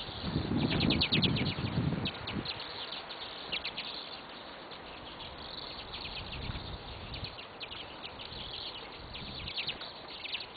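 Small birds chirping, many short high chirps in quick runs through the whole stretch. A louder low rumbling noise comes about half a second in and lasts a second or so, with a fainter one later.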